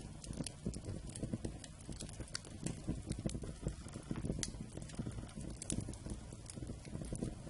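Wood campfire crackling, with frequent irregular sharp pops and snaps over a low, steady rumble of burning.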